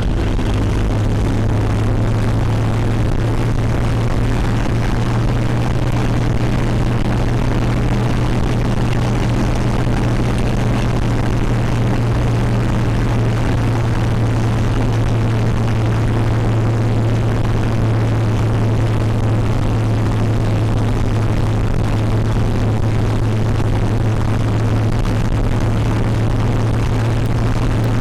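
REO motor vehicle running while under way, heard from on board: a steady, unchanging low drone over even road and engine noise.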